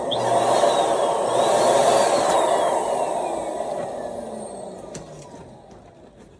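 A sudden rush of air through a latex balloon's neck with a thin whistle that rises and then falls, fading away over several seconds.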